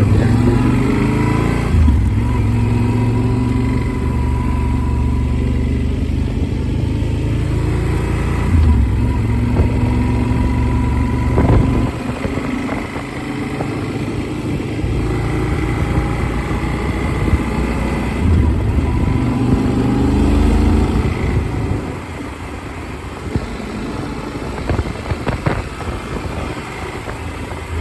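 Motorcycle engine running on the move, speeding up near the start and again about two-thirds through, easing off in between, with a heavy wind rumble on a helmet-mounted phone's microphone.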